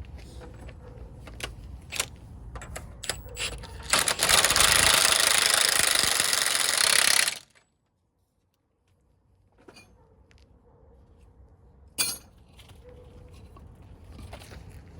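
Tool clicks and knocks, then a loud power tool runs for about three seconds, most likely an impact wrench tightening a fastener on the reinstalled front axle, cutting off suddenly; a single sharp knock follows near the end.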